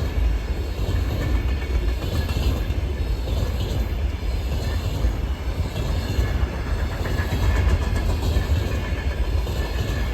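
Container freight train hauled by a VL80S electric locomotive passing on the track: a steady, loud low rumble of wheels on rails, with a faint high squeal at times.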